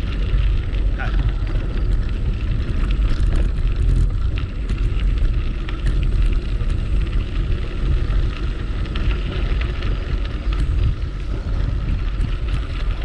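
Wind buffeting the microphone during a bicycle ride on a trail: a constant heavy low rumble with hiss, and a few faint ticks and rattles.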